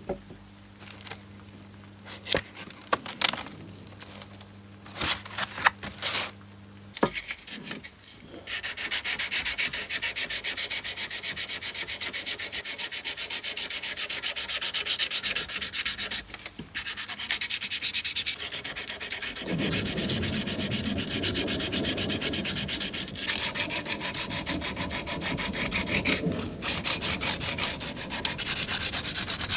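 Sandpaper being rubbed rapidly back and forth in steady, even strokes, with a few short pauses. It starts about eight seconds in, after some scattered clicks and handling knocks.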